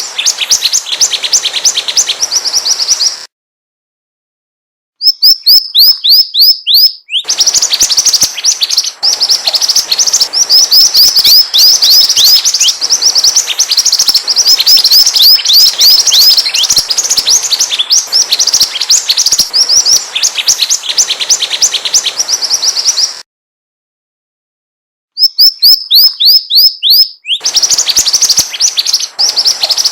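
Mantenan bird song played as a bird-trapping lure call: rapid, high, down-slurred chirps repeated many times a second in long bouts, broken twice by silences of about two seconds.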